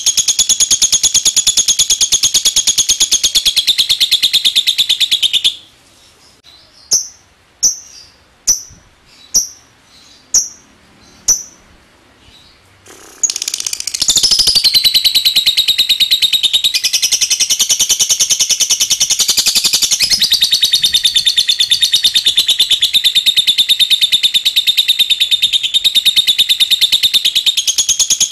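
A lovebird singing its long 'ngekek' song: a very fast, continuous, high-pitched chattering trill. About five seconds in it breaks off into seven short, separate chirps, then the long rapid trill starts again.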